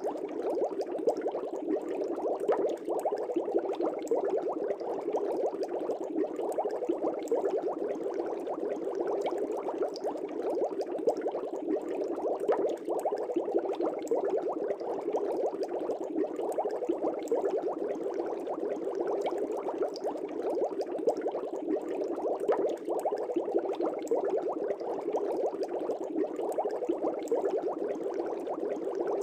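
Air bubbles rising and bursting in a fish tank: a steady, dense bubbling made of many small pops, with no let-up.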